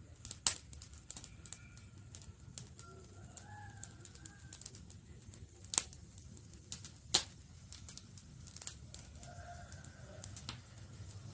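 Campfire crackling, with scattered sharp pops over a low steady rumble of the flames; the three loudest pops come about half a second, six seconds and seven seconds in. Faint bird calls are heard twice, around the middle and near the end.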